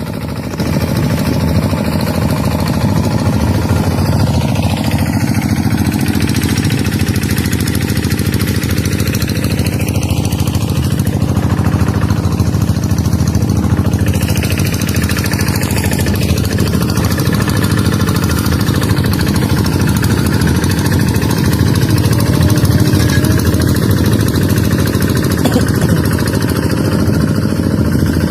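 A tractor engine running steadily and loudly, its sound heaviest low down and rapidly pulsing; it gets louder about half a second in and holds that level.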